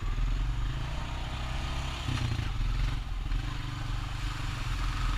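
Honda Rancher ATV's single-cylinder four-stroke engine running at low revs, with a brief rise in revs about two seconds in.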